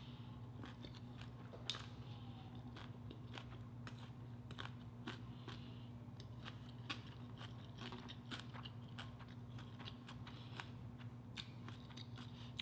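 Close-miked chewing of a soft taco: irregular small wet mouth clicks and light crunches, one sharper click near the start. A faint steady low hum runs underneath.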